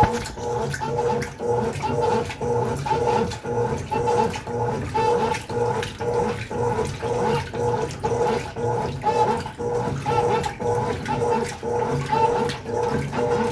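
Consul Facilite 11 kg top-load washing machine agitating a load in the wash stage: the motor hums with each back-and-forth stroke, about two strokes a second, while water sloshes through the clothes.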